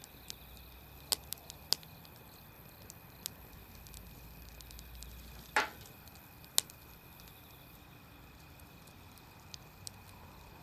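Wood campfire crackling: scattered sharp pops from the burning wood over a low steady hiss. The loudest pop comes a little after halfway and trails off briefly.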